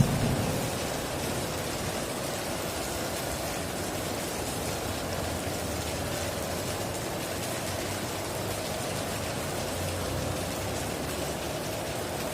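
Steady heavy rain, with the tail of a thunderclap dying away in the first second.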